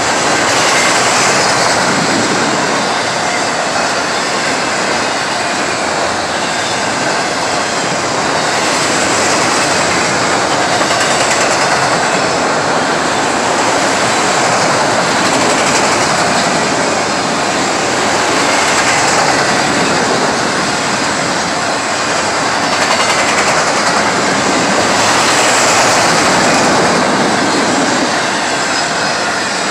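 Freight train of enclosed autorack cars rolling past at speed: a loud, steady rumble and rattle of steel wheels on the rails, swelling and easing slowly as the cars go by.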